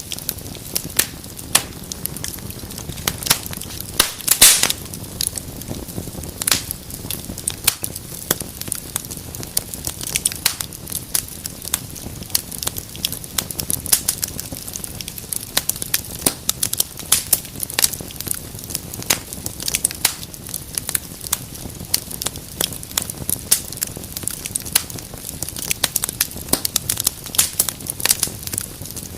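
Fireplace fire crackling, with frequent sharp pops and snaps over a steady low rumble of the flames; a cluster of louder pops comes about four seconds in.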